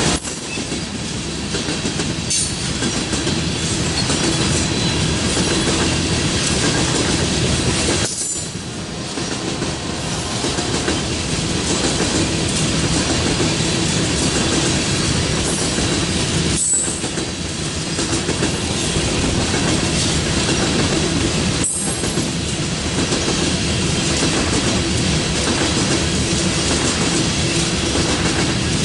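Freight train cars rolling past close by: a steady rattle and rumble of steel wheels on the rails, with the clickety-clack of wheels over rail joints. The level dips briefly three times.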